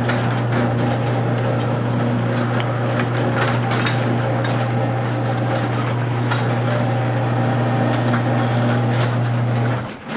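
Electric garage door opener running as the door goes up: a steady motor hum with clicks and rattles from the door, stopping just before the end.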